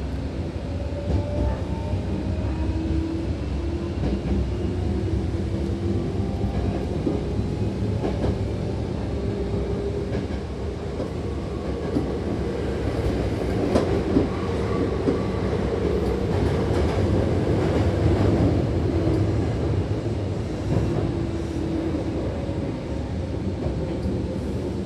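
Hankyu commuter train running between stations, heard from inside the car: a steady rumble of wheels on the rails, with a faint traction-motor whine that slides in pitch.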